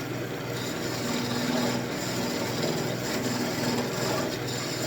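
Wood lathe running steadily while a turning tool cuts the spinning elm spoon blank, the cutting noise swelling and easing as the tool moves over the wood.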